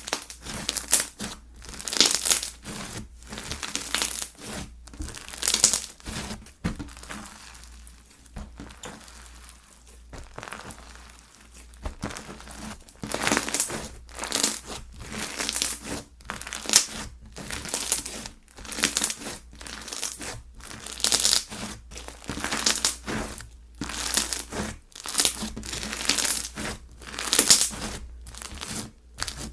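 Slime being squeezed, stretched and pressed by hand, giving an irregular run of sharp pops and clicks about once or twice a second, with a quieter stretch about a third of the way in.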